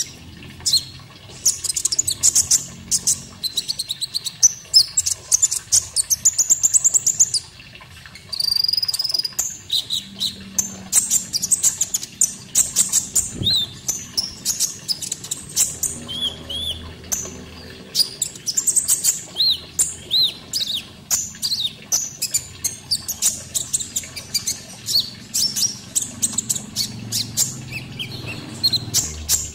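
Konin songbird singing: a rapid, continuous stream of high chirps, trills and short whistled notes, the kind of song recorded as a masteran to tutor caged birds.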